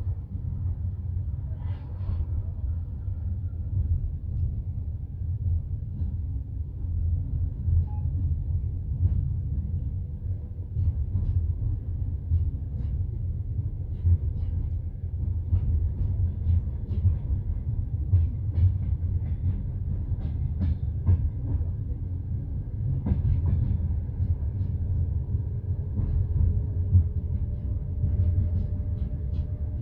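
Passenger train carriage running along the line, heard from inside: a steady low rumble with scattered clicks and knocks from the wheels on the rails.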